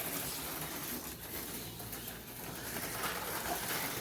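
HO-scale slot cars (AFX Mega G Plus type) running laps on the track, a steady whirring hiss of small electric motors and pickup shoes on the rails.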